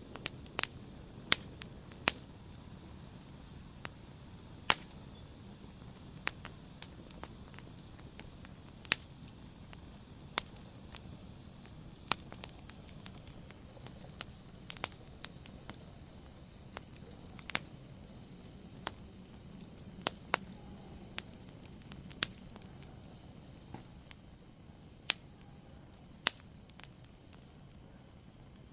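Wood fire burning in a fireplace: a soft steady hiss with irregular sharp crackles and pops, a few of them much louder than the rest.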